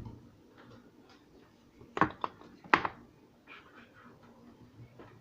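Kitchen items being handled and set down on a counter: a few sharp knocks and clatters, the loudest about two seconds in and again just before three seconds.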